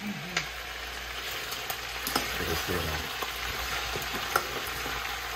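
Oxtail with sliced bell peppers and onions sizzling in a hot metal pot while being stirred with a spoon. The spoon clicks against the pot a few times.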